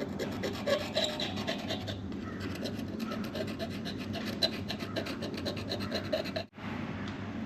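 Rapid, even rasping and rubbing strokes, several a second, from hand work at a hydraulic line fitting as its leaking O-ring is replaced. The sound breaks off abruptly near the end.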